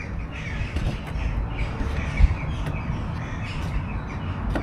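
Birds calling in the background, with a low rumbling haze and a single thump about two seconds in.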